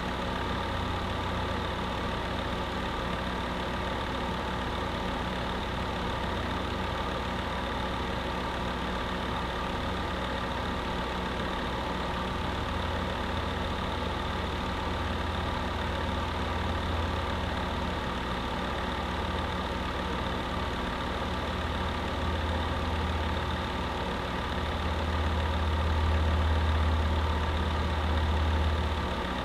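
Electric space heater running: a steady fan whir with a constant low electrical hum, the low end swelling slightly a few seconds before the end.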